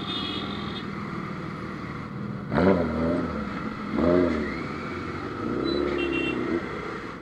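Superbike engine revving in two sharp blips, about two and a half and four seconds in, over the steady running of engines and traffic.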